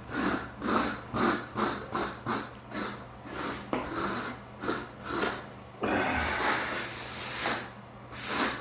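Steel knife blade scraping across damp shower pan mud in quick back-and-forth strokes, about two or three a second, then one longer drawn-out scrape near the end.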